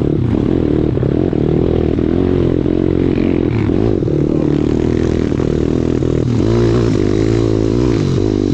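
Pit bike's small single-cylinder four-stroke engine running under load on a rocky trail, its pitch rising and falling as the throttle is worked, with scraping and clattering over the stones.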